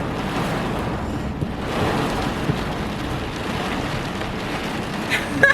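Torrential downpour: heavy rain falling steadily.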